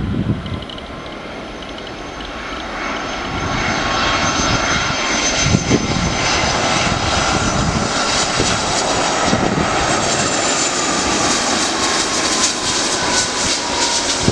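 An airliner's engines passing close by, the noise building over the first few seconds and then staying loud, with a whine that slowly falls in pitch as it goes by.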